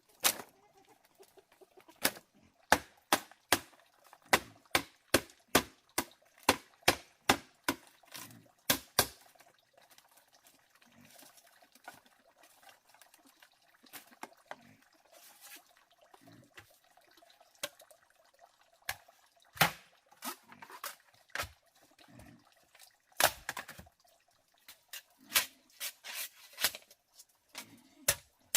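Repeated sharp knocks or taps, an even run of about three a second for several seconds, then scattered single knocks.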